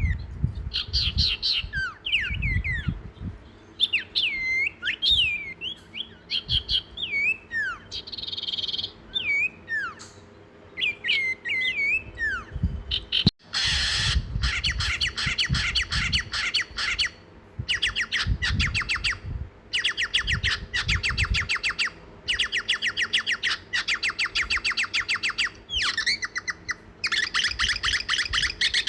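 Songbirds calling: first a run of short whistled notes that slur downward, then, after an abrupt break about halfway through, fast buzzy chattering trills repeated in bursts of two or three seconds.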